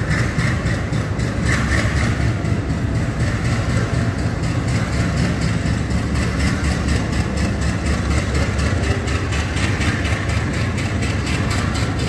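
Indian Railways passenger coaches rolling past close by as the train pulls out of the station. Their wheels make a steady low rumble on the rails, with a fast, even clatter running through it.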